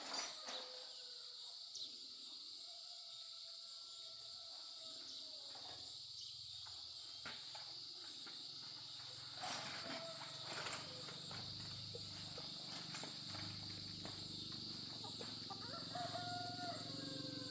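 Steady high-pitched drone of insects, such as crickets or cicadas, with a few scattered knocks and a low rumble building in the second half.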